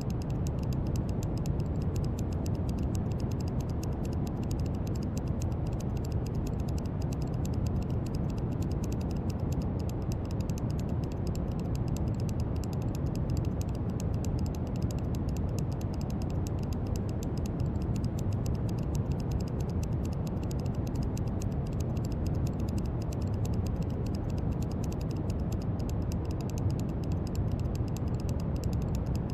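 Steady brown noise: an even, deep rumbling hiss that is heaviest in the low end, with a fine, rapid crackle of tiny clicks riding on top.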